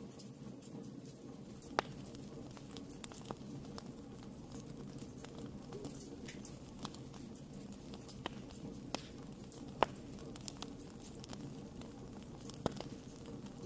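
Wood fire burning in a fireplace: irregular sharp crackles and pops over a steady low rumble of the flames. The loudest pops come about 2 seconds in, near 10 seconds, and near 13 seconds.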